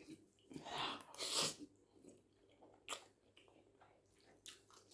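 Close-up mukbang eating sounds: a mouthful of spaghetti with shrimp being chewed, with two short hissing sounds in the first second and a half and a few sharp wet mouth clicks later on.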